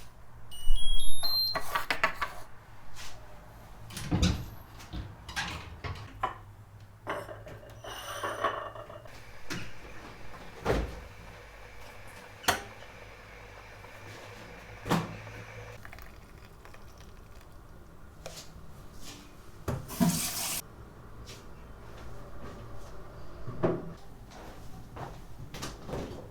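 Kitchen handling sounds: knocks and clatters of things being picked up and set down, with cupboard doors. A short rising electronic beep tune comes right at the start, a low steady hum runs until about two-thirds of the way through, and a brief hiss comes near the end.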